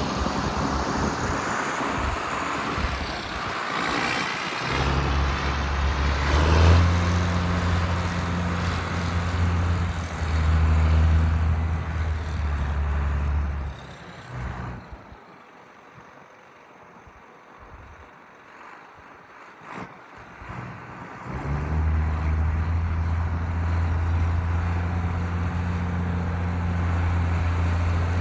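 John Deere 8450 tractor's turbocharged six-cylinder diesel engine running with a strong, even low drone. About halfway through it drops much quieter for several seconds, then comes back loud and steady.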